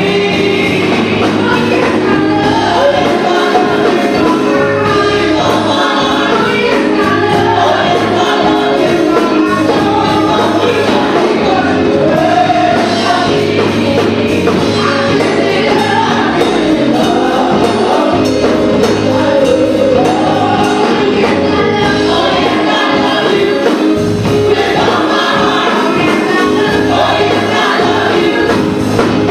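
Gospel choir singing with live band accompaniment, a steady bass under the voices.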